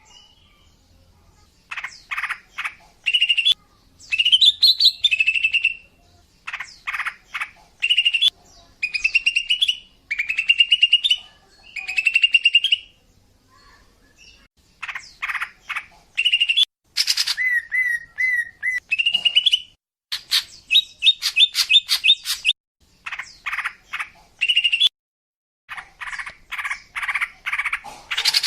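Female cucak ijo (greater green leafbird) calling in repeated bursts of quick chattering notes and short rising whistles, each burst about a second long with brief pauses between. It is the female's call of the kind used to lure males.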